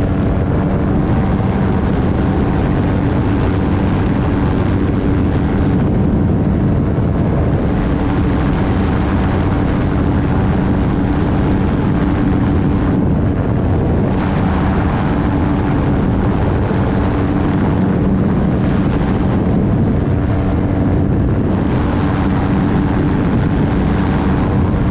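Gyrocopter's propeller engine running steadily at a constant pitch, with air rushing past; the noise swells and fades slowly every few seconds.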